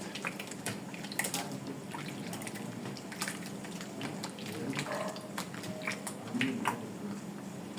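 Soursop pulp being squeezed by hand in a bowl of water to draw out the juice: irregular wet splashing and dripping.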